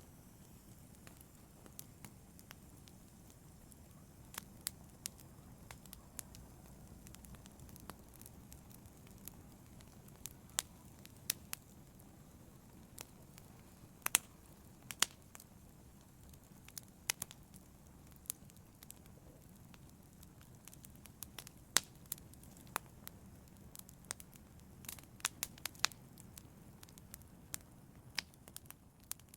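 Wood fire crackling in a fireplace: a low, steady rush of flames with sharp pops and snaps at irregular moments, sometimes in quick clusters.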